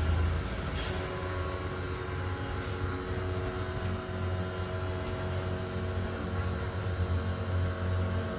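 Steady machine hum with a low drone and several steady higher tones, unchanging throughout.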